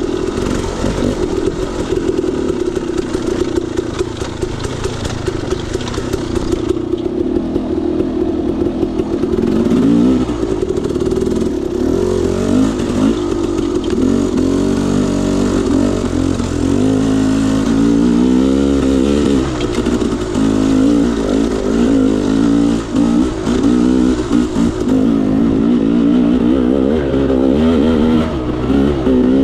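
KTM 300 XC-W two-stroke single-cylinder dirt bike engine under a rider, revving up and down over and over as the throttle is worked on a trail.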